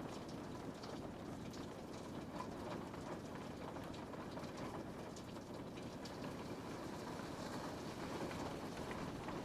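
Steady rain pattering on a window pane, a dense even hiss with many small drop ticks.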